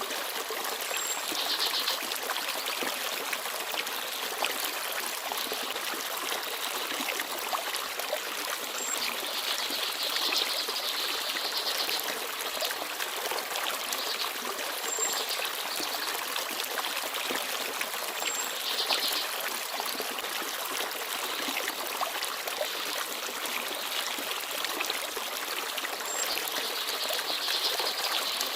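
Forest stream babbling and trickling steadily over stones. A few brief, high chirps from small birds stand out about five times over the water.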